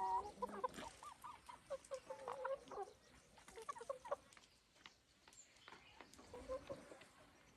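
Chickens clucking and calling, a busy run of short calls over the first few seconds, then fewer and fainter ones.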